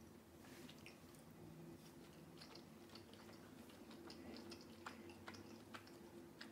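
Faint close-up chewing of a small open sandwich of yeast-free bread, goat cheese and chuka seaweed, with a run of soft wet mouth clicks in the second half.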